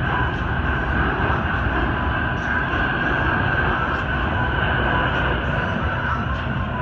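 Boeing C-17A Globemaster III's four Pratt & Whitney F117 turbofan engines heard in flight, a loud, steady jet noise with a constant high whine over it.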